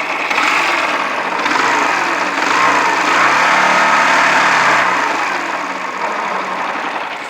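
Yamaha YBR125 single-cylinder engine running with a mechanical knock, its revs rising about two and a half seconds in and easing back after about five seconds. The knock is the sign of an engine run nearly dry of oil, which the owner puts down to wrecked crankshaft bearings and their crankcase seats and a worn piston and rings, with perhaps a worn timing chain.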